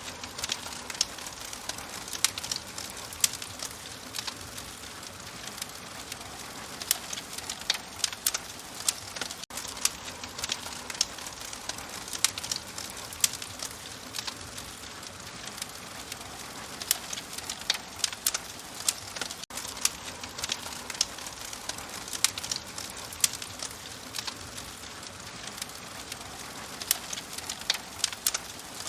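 Wood fire in an open fireplace crackling, with frequent sharp, irregular pops over a steady soft hiss.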